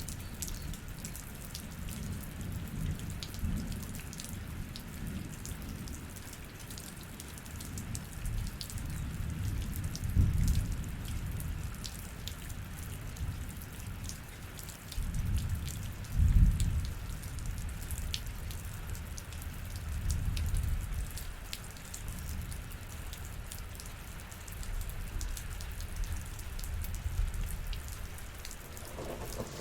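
Rain falling, with many separate drops ticking on a surface, over a low rumble that swells twice, about ten and sixteen seconds in.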